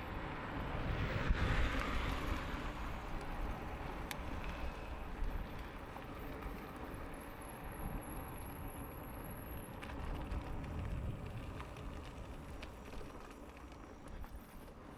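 Wind rush and tyre noise from an e-bike ridden at speed, loudest in the first couple of seconds and easing afterwards. A faint high-pitched whine comes in from about seven to ten seconds in.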